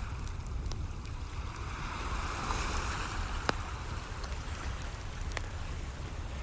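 A wave washing in, its hiss swelling and fading over a couple of seconds, over a steady low rumble and the scattered crackles and pops of a wood fire, with one sharp pop about three and a half seconds in.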